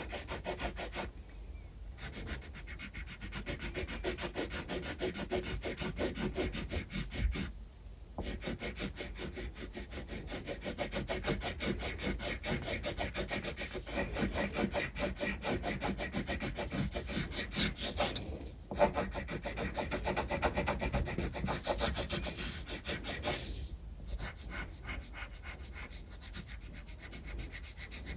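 Graphite pencil shading on sketchbook paper: fast, steady back-and-forth scratching strokes, stopping briefly a few times.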